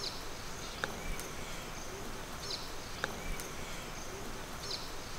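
Outdoor ambience: a bird giving short, sharp high calls that repeat about every two seconds over a faint, steady insect buzz.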